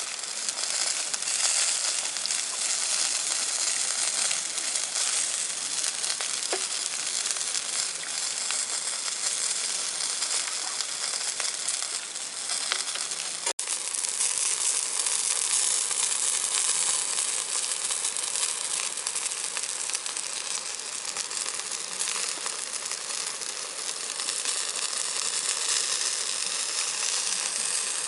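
Food frying in a pan with a steady sizzle, breaking off for an instant about halfway through before carrying on.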